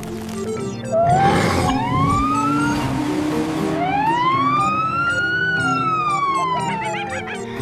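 Police car siren wailing: a short rising sweep about a second in, then one long slow rise and fall in pitch, over background music. A brief rushing noise comes in with the first sweep.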